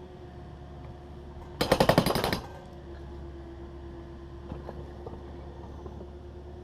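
Takeuchi TB260 excavator running steadily, with a loud rapid rattle of knocks lasting under a second about one and a half seconds in.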